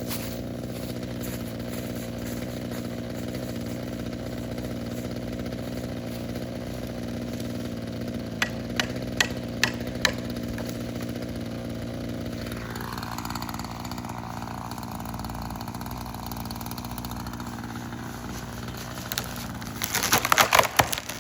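Two-stroke chainsaw engine running at a steady speed, with a few sharp clicks about eight to ten seconds in. Near the end there is a burst of loud crackling.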